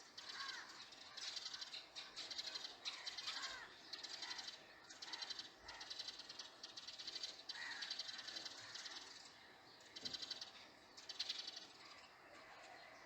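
Birds calling: repeated quick rattling trills, high-pitched, with short gliding notes between them.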